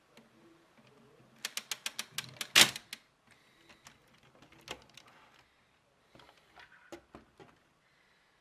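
Lego plastic rifle mechanism clicking: a rapid run of about eight clicks, ending about two and a half seconds in with one loud snap, then scattered softer clicks and rattles of plastic parts.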